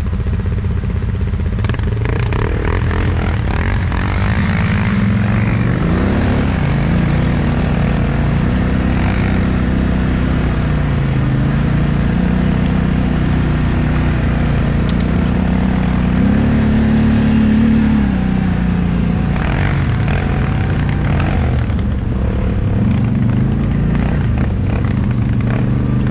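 ATV (quad bike) engine running under changing throttle, its note rising and falling, highest about two-thirds through and then dropping. A few knocks come shortly after.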